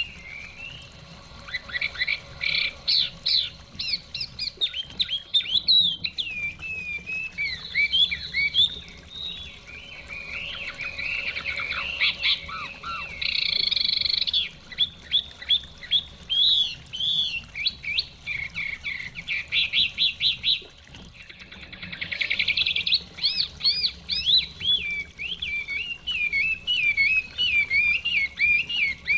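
Chinese hwamei (họa mi) singing: a long run of loud, varied whistled phrases, fast trills and quick repeated notes, with short breaks about a second in and again around twenty-one seconds in.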